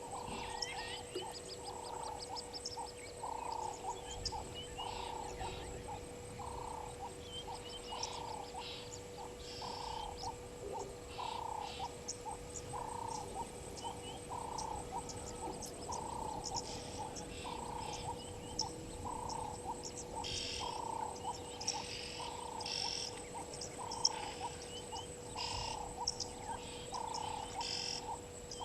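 A frog calling at a waterhole in a steady series, one short croak about every three-quarters of a second, with birds chirping over it, more busily in the second half.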